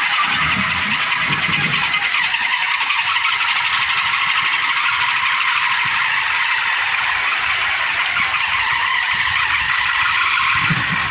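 Kolecer, a Sundanese wooden propeller windmill, spinning fast in strong wind and giving off a loud, steady, rough whirring drone. Low rumbles of wind come through about half a second to two seconds in and again near the end.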